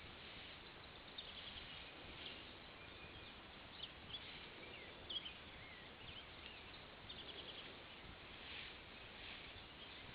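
Faint small-bird chirps and short rapid trills over steady outdoor background noise, with a few sharper chirps near the middle.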